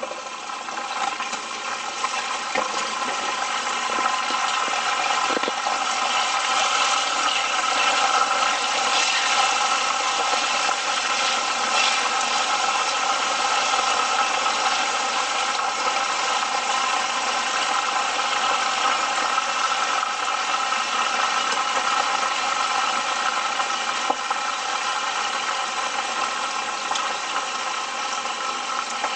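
Battered chicken pieces shallow-frying in hot oil in a frying pan: a steady, loud sizzle that grows louder over the first few seconds and then holds.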